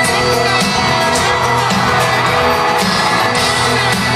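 Live country band playing an instrumental passage between lines of the song, with a steady drum beat and sustained guitar tones, heard loud through an amateur recording with some crowd noise underneath.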